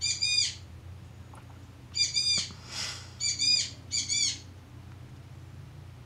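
A bird calling four times, each call about half a second long: once at the start, again about two seconds in, then twice close together.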